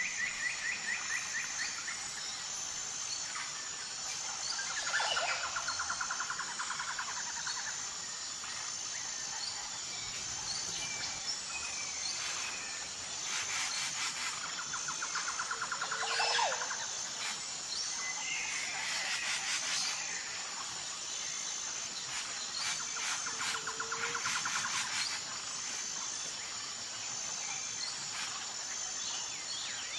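Birds calling over a steady high-pitched insect trill. A trilled bird call comes three times, a few seconds apart.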